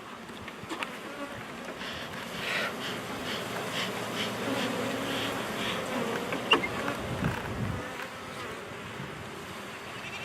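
Honey bees buzzing around an opened hive, stirred up by the inspection, with a wavering hum. A single sharp click about six and a half seconds in.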